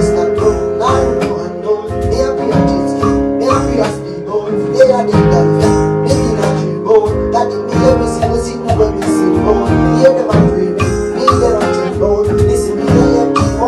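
Band music with guitar over a steady beat, played at a concert rehearsal.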